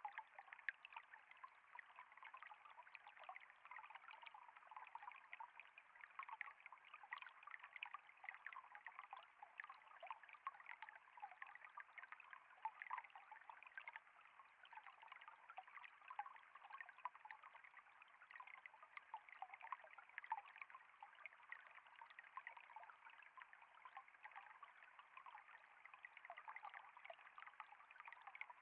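Flowing water trickling steadily and faintly, a constant light babble of many small splashes.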